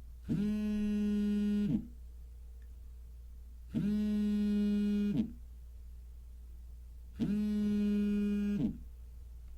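Telephone ringing with a low, buzzy electronic tone: three rings of about a second and a half each, evenly spaced about three and a half seconds apart, each sliding slightly in pitch as it starts and stops. A steady low hum sits underneath.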